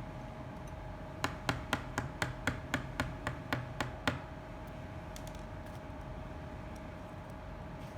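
A quick run of about a dozen sharp clicks, roughly four a second, lasting about three seconds, over a steady faint hum.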